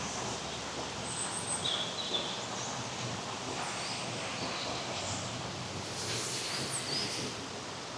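Small songbirds chirping in short high notes and quick down-slurred calls over a steady outdoor hiss, with a burst of calls about a second in and several more about six to seven seconds in.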